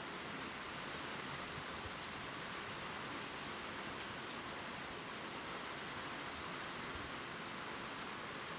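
Steady gentle rain falling on leaves, a constant hiss with a few faint drop ticks.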